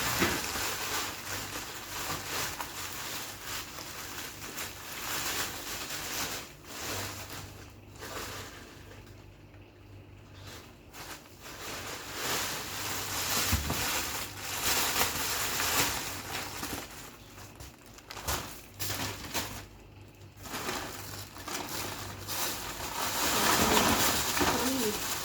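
Plastic bags of frozen meat rustling and crinkling as they are handled and sorted, with scattered short knocks.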